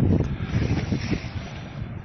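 Wind buffeting the microphone in gusts, a low rumble that is strongest in the first second and eases toward the end.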